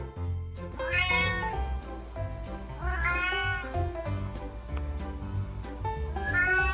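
Domestic cat meowing three times, each meow rising then falling in pitch, with the third near the end. Background music with a steady beat plays underneath.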